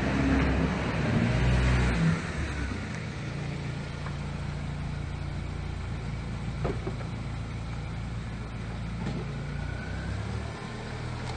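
Car engine running, a little louder in the first two seconds, then settling to a steady idle.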